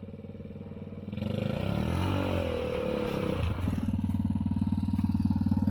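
Kids' car's 110cc engine running under way. About a second in it grows louder and its pitch rises and wavers as it revs, then settles into a steady, louder note.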